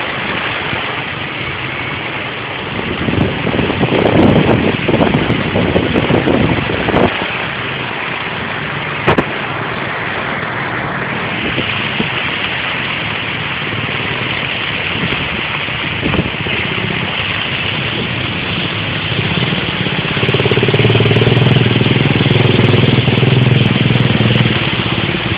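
Steady hiss of a car travelling in the rain, with the engine running. From about twenty seconds in, a low steady engine hum grows louder.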